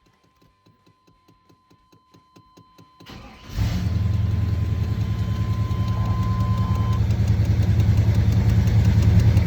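Truck engine with long-tube headers and Hooker mufflers cranking briefly with quiet starter ticks, catching about three and a half seconds in, and settling straight into a throaty, steady high idle on the electric choke.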